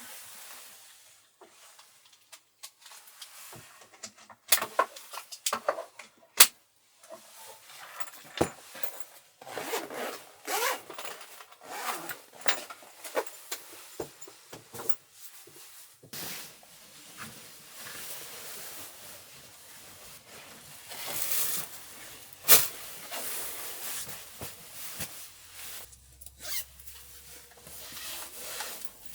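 Things being handled by hand: rustling and rubbing, with scattered sharp clicks and knocks, and a zipper-like scraping.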